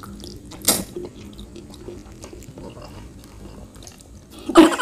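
Close-miked eating of spaghetti: a short slurp of noodles about a second in, then soft, wet chewing. A brief loud voice sound comes near the end.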